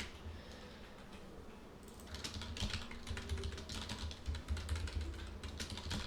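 Computer keyboard typing: a run of quick keystrokes that starts about two seconds in, after a brief lull.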